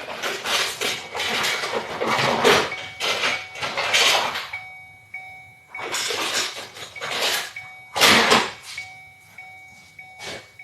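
Irregular scraping and rustling as hands work at seat wiring connectors under a car seat, heaviest early on, again partway through, and in one sharp burst near the end. Behind it, a faint short beep repeats about twice a second.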